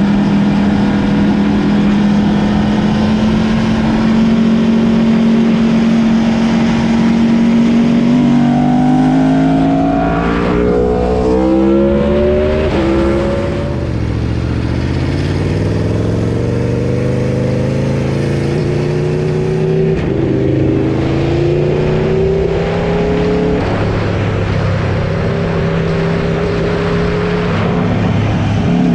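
Aprilia RSV4 V4 engine through a RaceFit aftermarket exhaust, ridden hard. It holds a steady pitch for several seconds, then climbs in a series of steps, drops sharply about halfway through and pulls up again, with wind rushing over the camera microphone throughout.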